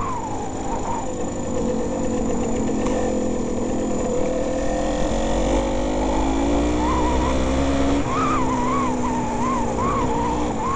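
Yamaha DT200R's single-cylinder two-stroke engine heard from the rider's helmet. The revs fall away at the start, then the engine pulls steadily with the pitch slowly climbing. About eight seconds in the revs drop, and the throttle is then blipped up and down in short pulses.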